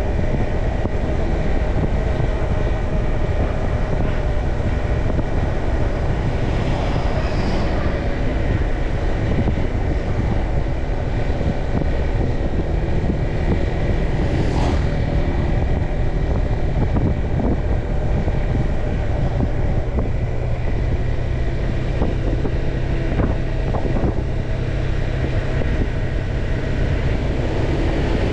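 Motorbike riding along with heavy wind noise on the microphone over a steady engine hum. Other vehicles whoosh past three times.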